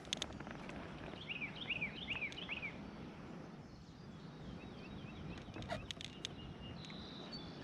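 A bird singing a quick run of about six repeated arching chirps about a second in, then fainter chirps later, over steady outdoor background noise, with a few sharp clicks near the six-second mark.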